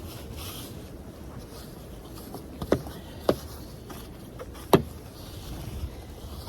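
Wind rumbling on the microphone in a blizzard, with three short sharp knocks near the middle.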